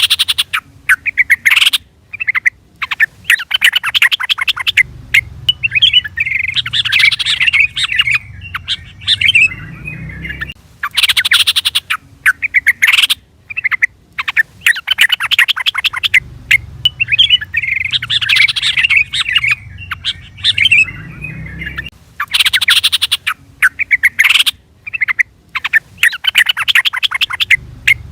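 Yellow-vented bulbul (trucukan) calling: loud bursts of rapid chattering notes with short pauses between them. The same sequence repeats about every eleven seconds, as in a looped call recording used to lure or train bulbuls.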